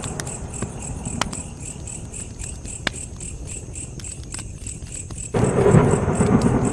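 Campfire burning with occasional sharp crackles, over a steady, high, rapid chirping of crickets at about five chirps a second. The low rumble of the flames fades after a second or so and comes back suddenly about five seconds in.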